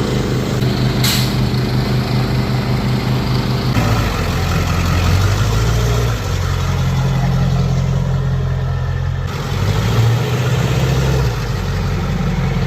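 An engine running steadily with a low, pitched hum, its note changing abruptly about four and nine seconds in.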